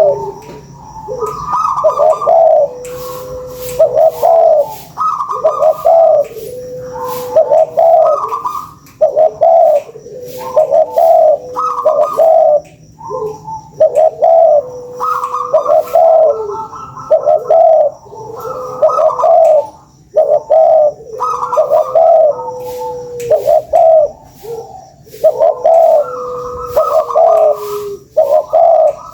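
Spotted doves cooing in short repeated phrases, one after another with barely a pause, the phrases partly overlapping.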